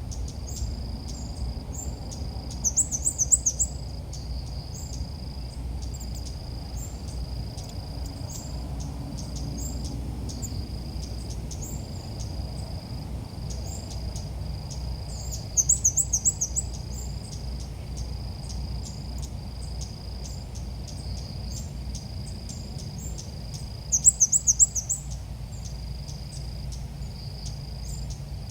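Ốc mít bird calling in three short, rapid, high trills of about a second each, near the start, around the middle and near the end, as used to lure birds to a trap. Under them, insects chirp in a steady pulsing rhythm.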